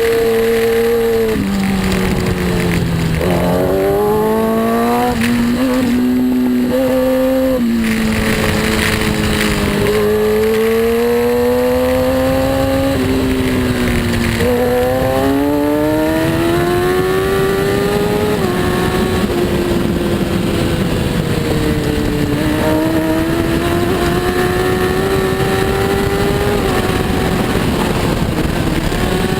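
Superbike engine at racing speed, revving up through the gears with sudden pitch drops at each shift, then falling away under braking and climbing again out of the corners.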